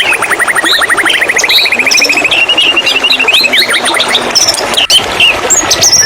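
White-rumped shama singing: a fast trill of repeated notes that rises in pitch, then varied short whistled phrases, with a steady held whistle near the end. A steady rush of flowing water runs underneath.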